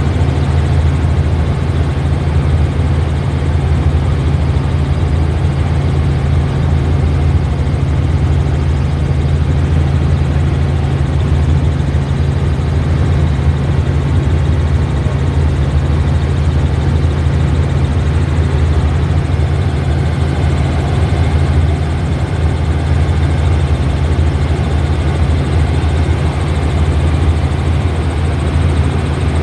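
Helicopter's engine and rotor running steadily in flight, a constant low drone heard from inside the cabin.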